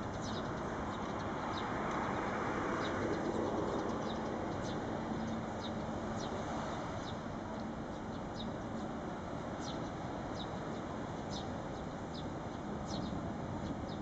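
Short high bird chirps, each a quick falling note, repeating irregularly about once or twice a second over a steady low background rumble that swells slightly a few seconds in.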